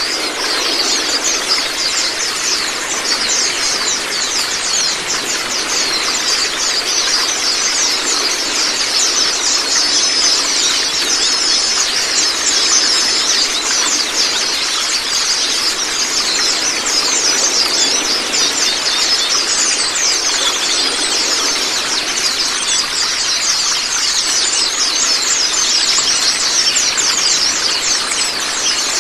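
Many white-eyes (Zosterops, 'pleci') chattering and singing at once in quick, overlapping falling notes, over a steady rush of running water.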